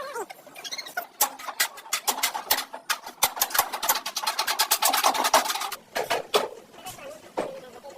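A rapid run of sharp clicks and taps, several a second, starting about a second in and stopping near six seconds, followed by a few short squeaks.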